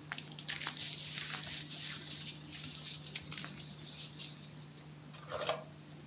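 Close-up crunching and crackling of chalk: a dense run of small crisp crackles that thins out after a few seconds, then a fuller crunch about five seconds in.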